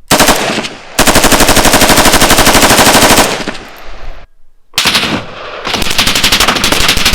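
Fully automatic gunfire heard from downrange, from behind the concrete wall being shot at: a short burst, then a long burst of about two seconds of rapid, evenly spaced shots, and after a pause another long burst from about five seconds in.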